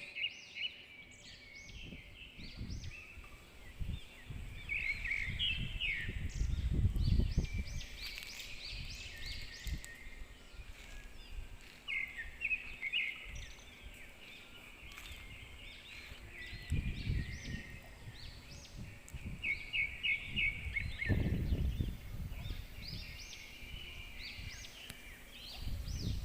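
Birds chirping over and over in short calls, with gusts of wind buffeting the microphone several times.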